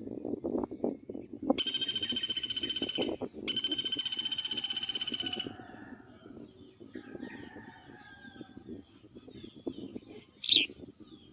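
Outdoor animal sounds: two rapid buzzing trills of about two seconds each, then a steady high insect drone. About ten seconds in comes one sharp, falling bird chirp, the loudest sound.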